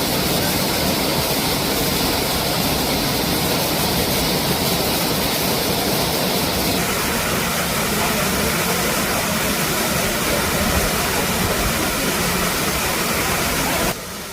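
Steady rushing roar of a waterfall. The sound changes character about halfway through and drops off abruptly near the end.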